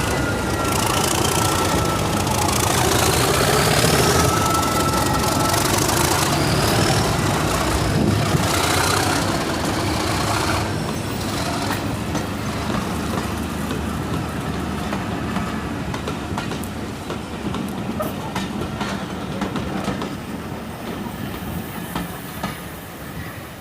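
Diesel-hauled train on the move: a heavy engine rumble with wheels clicking over the rail joints and a few thin squeals in the first few seconds. It fades steadily as the train draws away.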